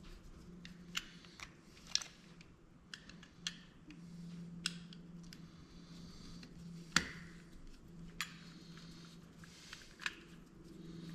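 Scattered sharp clicks and taps of tools on the plastic and metal parts of a dome security camera being worked loose, the loudest about seven seconds in, over a steady low hum.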